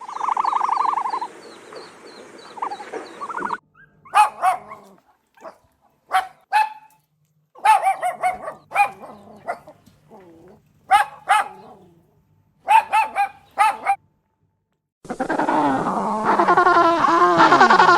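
A dog barking: a string of short, sharp barks through the middle, between a steady call at the start and a dense run of wavering, whining calls near the end.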